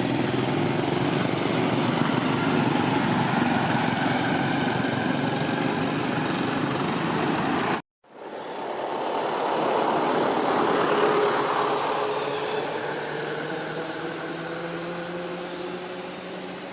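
A motor engine running steadily. After a sudden break about eight seconds in, engine noise swells and then fades, its pitch rising slowly.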